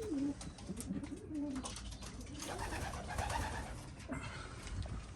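Domestic pigeons (Syrian baladi breeds) cooing in low, wavering notes, mostly in the first second and a half, with faint clicks and rustling among the birds.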